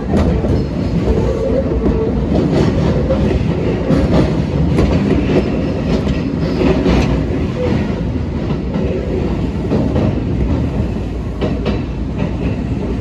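Kintetsu 1250 series electric train running at speed, heard from inside the car: a steady rumble of wheels on rail with scattered clacks over rail joints.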